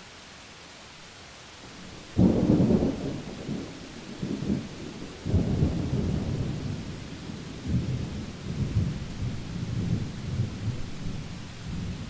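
Thunder over steady rain: about two seconds in a sudden loud clap, then a long rolling rumble that swells again about five seconds in and keeps rumbling.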